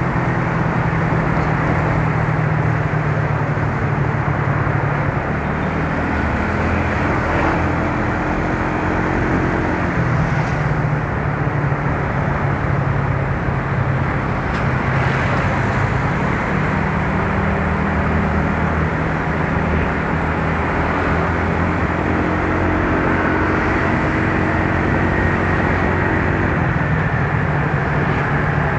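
Yamaha Mio Soul scooter's small single-cylinder engine running on the road, its hum stepping up and down in pitch a few times with the throttle, under steady wind and road rush.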